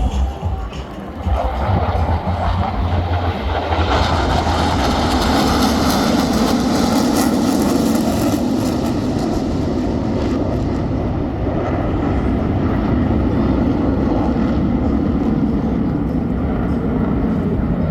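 Jet noise from the Black Eagles' T-50B aerobatic jets flying past. It builds about a second in, with a hiss that is strongest midway, then eases to a steady lower drone.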